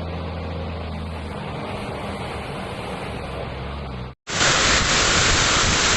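Steady noise of hail and heavy rain, with a vehicle's engine hum underneath for the first second or so. About four seconds in, a cut to a much louder, harsher hiss of hail pouring down.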